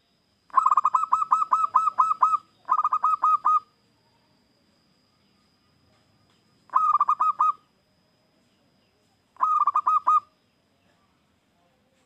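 Zebra dove (perkutut) singing its rapid cooing song in four bouts. The first bout is the longest, at about ten quick notes, and a shorter one follows at once. Two brief bouts come later, a few seconds apart.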